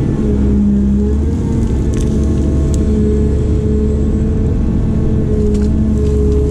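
A heavy construction machine's diesel engine running steadily with a low rumble, with a pitched whine over it that wavers slightly in pitch.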